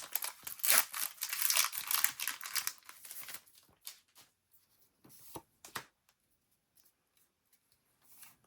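A foil trading-card booster pack being torn open and crinkled for about three seconds, followed by a few faint taps.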